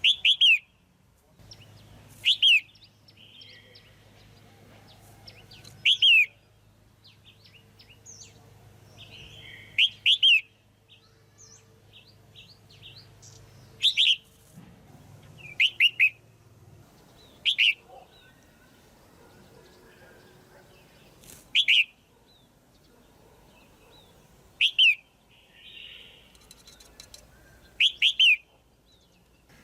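Female red-whiskered bulbul giving short, loud calls about ten times, spaced every two to four seconds, each a quick falling note.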